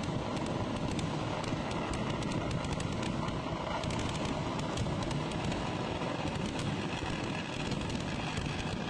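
Dense, continuous barrage of temple firecrackers: a steady rumble packed with many sharp cracks, holding at an even loudness throughout.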